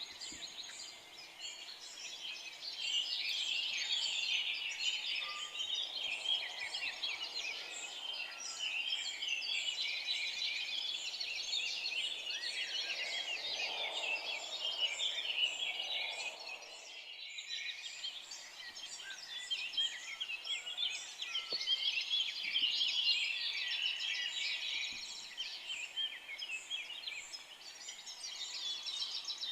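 Dense forest chorus of many songbirds chirping and singing over one another, with a brief dropout about halfway through.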